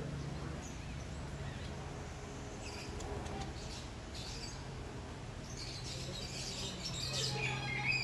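Small birds chirping: scattered high chirps a few seconds in, then denser chirping with short falling whistles near the end, over a low steady hum.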